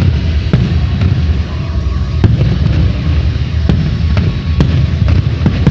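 Fireworks display: a continuous rumble of shells bursting, with several sharp bangs at irregular intervals.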